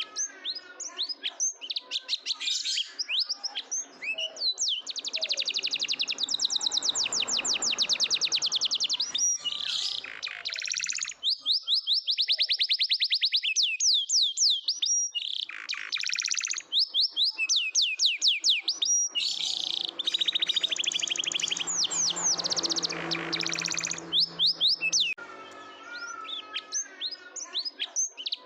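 Domestic canary singing a long, continuous song of fast trills and rolling runs of rapidly repeated high notes, phrase after phrase, with a short lull about halfway through.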